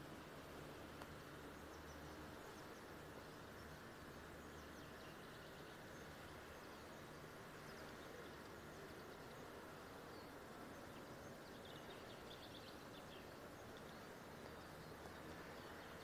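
Near silence: faint outdoor ambience with a steady hiss and a few faint bird chirps, the clearest about twelve seconds in.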